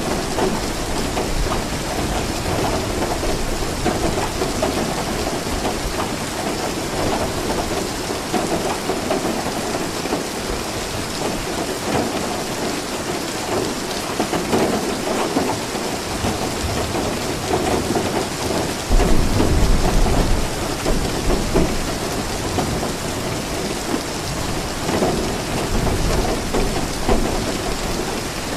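Steady rain falling with thunder. About two-thirds of the way in, a deep rumble of thunder breaks in suddenly and rolls on for several seconds.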